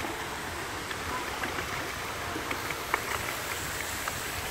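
Water splashing and trickling around a small paddled boat, with a few light clicks and knocks.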